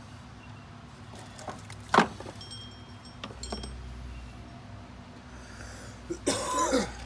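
Metal clinking and clanking of tools and parts, with one sharp clank about two seconds in and a longer, rough scraping sound near the end.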